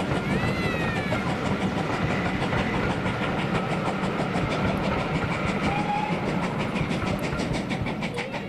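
A train hauled by the GWR Manor class steam locomotive 7828 passing, its wheels clicking rapidly over the rail joints, the sound easing off near the end as it draws away.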